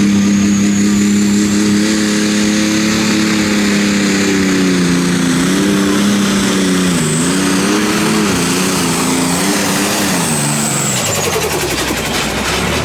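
Pulling tractor's diesel engine running flat out under the load of the sled, with a high whine above it. The engine pitch holds, then wavers and dips as the load bogs it down, and falls away over the last two seconds as the run ends.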